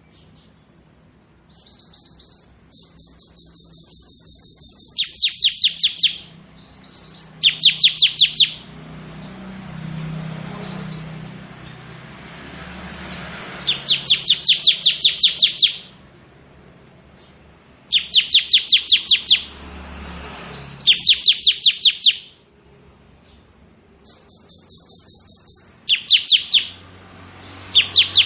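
Bar-winged prinia (ciblek) singing its rapid 'ngebren' trill: repeated bouts of fast, evenly spaced high notes, each lasting a second or two with short pauses between. Some bouts step down in pitch partway through.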